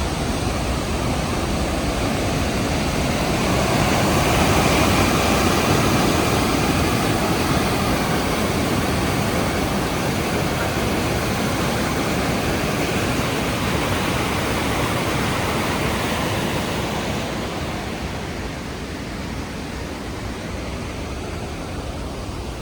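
Rhine Falls' waterfall thundering nearby, a dense steady rush of water. It swells for a few seconds early on and fades somewhat after about seventeen seconds.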